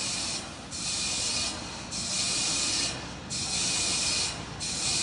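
High hissing that comes in even pulses, a burst of about a second roughly every 1.3 s, over a faint low rumble.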